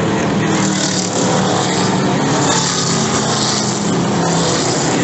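NASCAR Truck Series trucks' V8 engines running around the track as a steady, loud engine noise with no single pass standing out.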